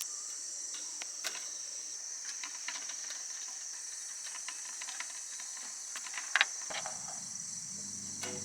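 Steady high-pitched chirring of crickets, with scattered light clicks and knocks. Soft music comes in near the end.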